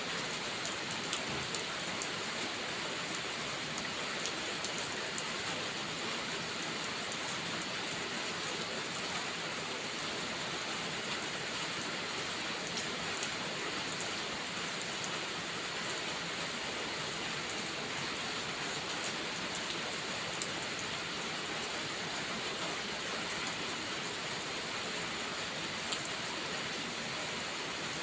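Steady rain falling and pattering on a surface, a dense even hiss scattered with many small sharp ticks of individual drops.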